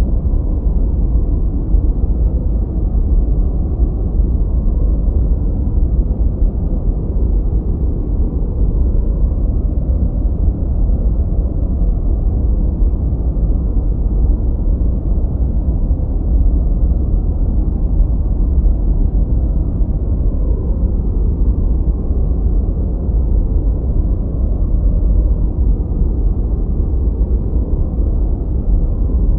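Continuous synthetic noise, steady and unchanging, weighted heavily to the low end: a deep, muffled rumble with no hiss on top.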